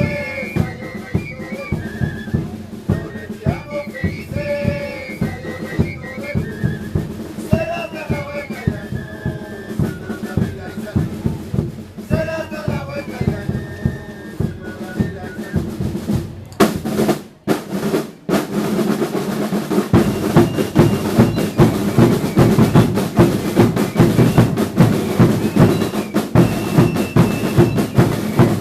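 Drums of a Chilean religious dance troupe beating a steady, fast rhythm, with voices singing or calling over them in the first half. After a brief drop-out about two-thirds of the way in, the drumming comes back louder and denser.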